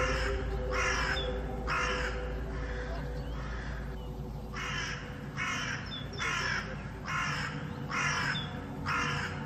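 A bird giving harsh, caw-like calls about once a second, with a lull in the middle, over a steady low hum.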